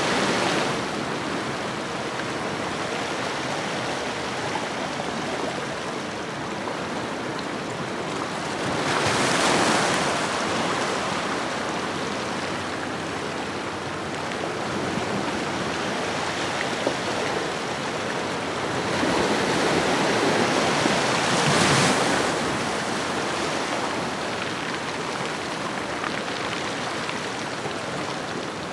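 Ocean waves washing onto a shore: a steady wash of surf with two larger waves swelling and breaking, about nine seconds in and again around twenty seconds in, each fading back over a few seconds.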